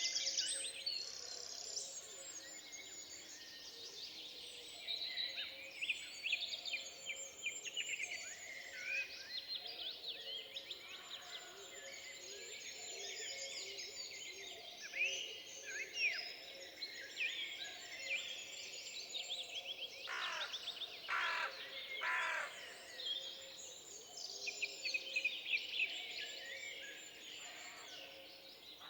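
Forest ambience with several small birds singing and chirping, many short calls and trills overlapping, and a louder run of calls about twenty seconds in. A faint steady hum lies underneath.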